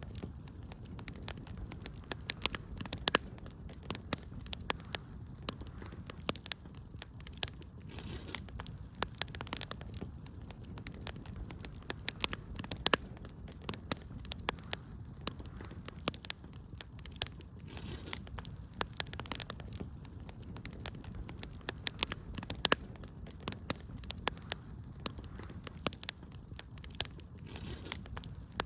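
Wood fire burning in a fireplace, crackling with frequent irregular sharp pops and snaps over a low steady rumble of the flames.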